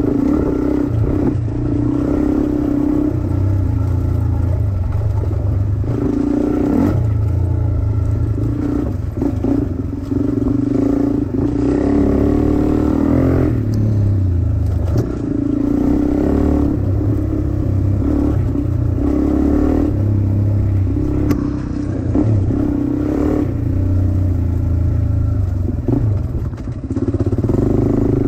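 Dirt bike engine running under load on a trail ride, the throttle opening and closing every few seconds so the pitch keeps rising and dropping, with some clattering along the way.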